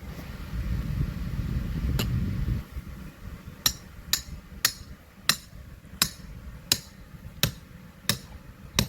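A hammer driving a metal ground stake, with a single strike about two seconds in and then a steady run of sharp, ringing blows, about one every three quarters of a second. A low rumbling noise fills the first couple of seconds.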